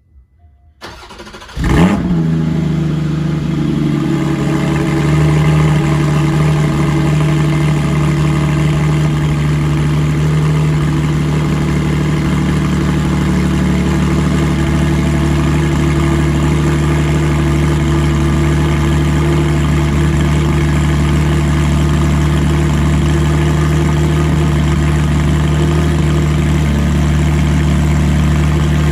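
Porsche 718 Spyder's flat-six breathing through a Kline Innovation exhaust, starting up: it cranks about a second in, catches with a sharp rev flare, then settles into a steady idle.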